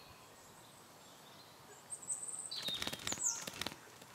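Birds chirping over a faint outdoor background hiss. About two seconds in comes a quick burst of high chirps and a rapid trill lasting under two seconds.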